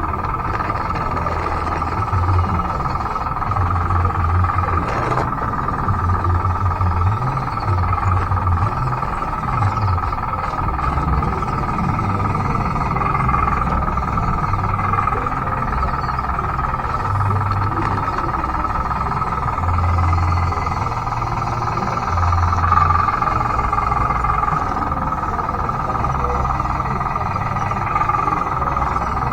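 Small electric drive motors of a converted Bruder D5 RC bulldozer running steadily with a high whine, with an irregular low pulsing underneath and a brief click about five seconds in.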